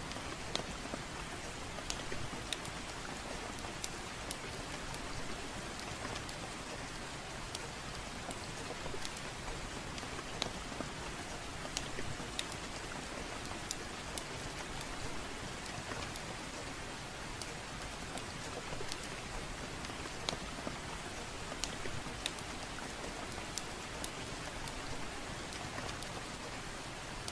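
Steady soft rain falling, with scattered sharp crackles and pops from a wood fire burning in a fireplace.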